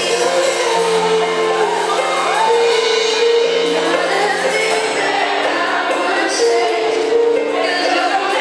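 A song performed live with a band and a group of voices singing, at a steady level with long held notes.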